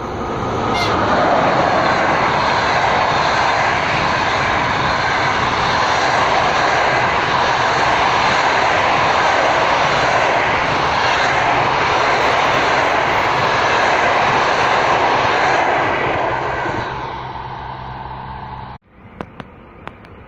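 Passenger train passing at speed: a loud, steady rush of wheel and rail noise that builds within the first second and eases off later on. Near the end it cuts off suddenly to a much quieter sound with a few sharp clicks.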